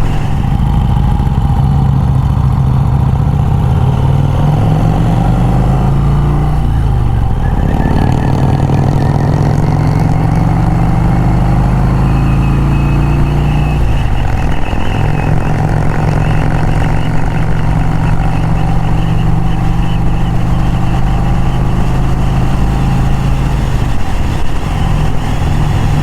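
1951 Vincent Rapide's 998 cc V-twin engine running under way on the road, its note dipping and picking up again three times.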